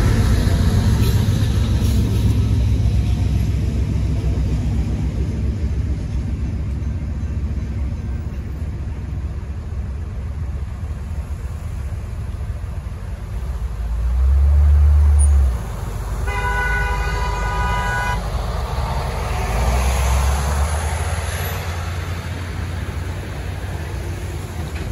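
Freight train with rear GE distributed-power locomotives rumbling past and fading away. About fourteen seconds in comes a short, loud burst of low rumble, then a horn sounds one chord for about two seconds, and road vehicles start moving across the crossing.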